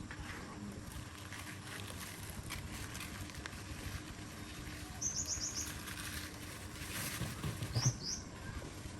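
A small bird chirping: a quick run of about five high chirps about five seconds in and two more near the end, over faint scattered taps and a low steady hum.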